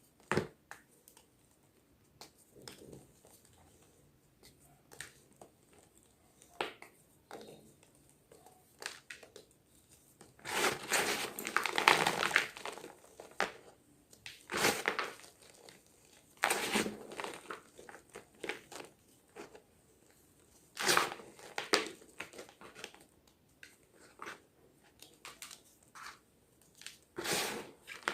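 Block of gym chalk being crushed and crumbled, giving dry, irregular crunches. A dense run of crunching comes about ten seconds in, with scattered single crunches before and after.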